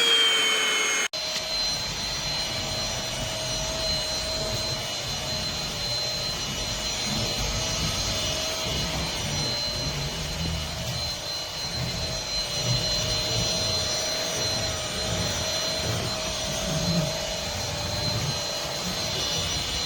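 Cordless stick vacuum running steadily on carpet, a high motor whine over a rumbling, uneven low end from the floor head. Its pitch drops right at the start, there is a short break about a second in, and then it runs steadily.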